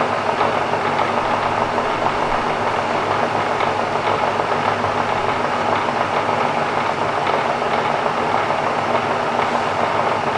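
Bridgeport vari-speed milling head's spindle motor and belt drive running steadily forward at about 800 RPM, an even, smooth running sound with a constant low tone and no knocks or changes.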